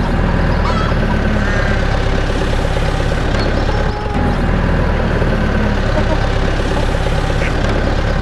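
Steady engine running like a tractor's, with a brief break about four seconds in.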